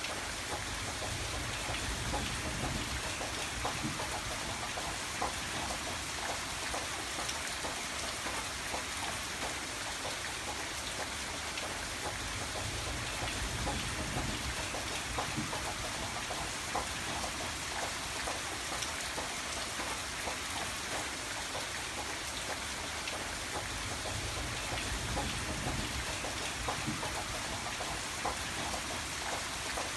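Steady rain falling, a dense hiss dotted with the ticks of single drops. Underneath, a low rumble swells and fades about three times.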